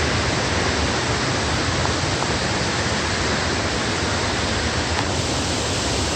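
Waterfall with its water pouring out of caves in the rock face into a river: a steady, full rush of falling water.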